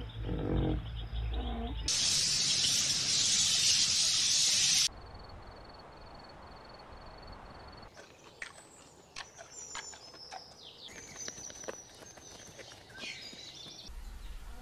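A loud, even hiss lasting about three seconds, then quiet, then birds chirping with scattered small clicks from about eight seconds in.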